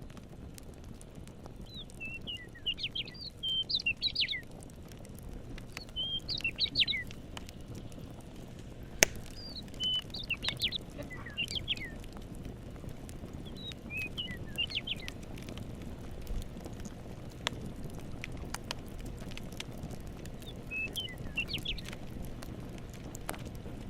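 A songbird singing short bursts of quick chirping notes, about six phrases a few seconds apart, over the crackle of a campfire with scattered sharp pops, the loudest about nine seconds in, and a steady low rumble of the fire beneath.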